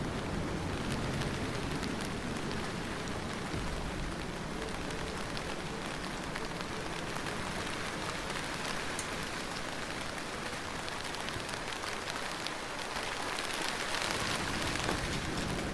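Steady heavy rain falling on a surface: a dense even hiss of countless drops, with no thunder.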